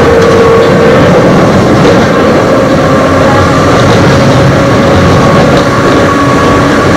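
Eizan Electric Railway train running between stations, heard from aboard: the rumble of wheels on the rails under a steady whine from its nose-suspended (tsurikake) traction motors and gears.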